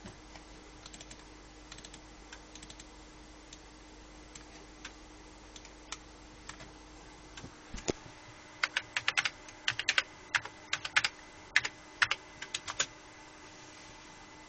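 Typing on a computer keyboard: a few scattered key clicks, then a quick run of keystrokes lasting about four seconds, starting around eight seconds in. A faint steady electrical hum lies underneath.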